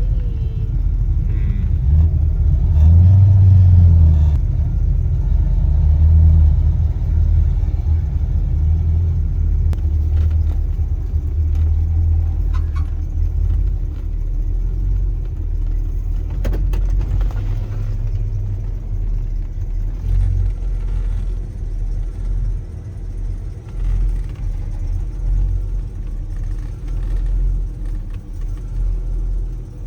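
Oldsmobile 442's engine running with a steady low rumble as the car drives along, mixed with road noise; it swells briefly about three seconds in.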